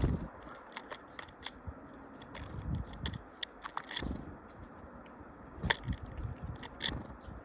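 Small birds pecking and cracking feed at a feeder: irregular sharp taps and crunches, with a few louder knocks.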